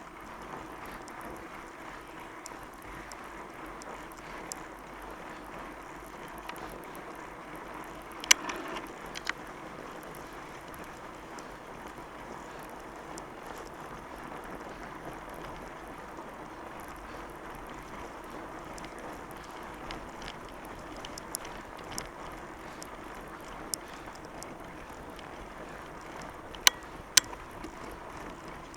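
Steady rolling noise of a fat bike's wide tyres on wet, sticky snow, with a few sharp clicks from the bike: the loudest about eight seconds in, and two close together near the end.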